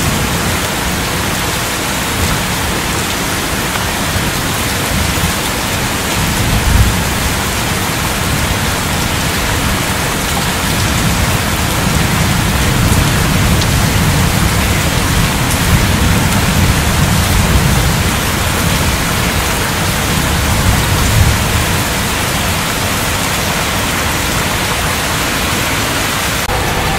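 Heavy thunderstorm rain pouring down steadily, with low rumbling swells that rise and fall underneath.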